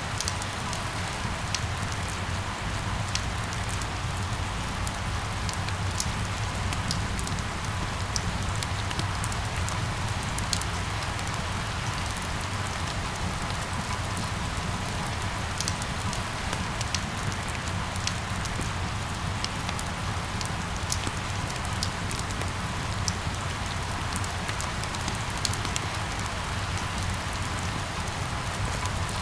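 Steady rain falling, with scattered sharp ticks of single drops over an even hiss and a low steady rumble beneath.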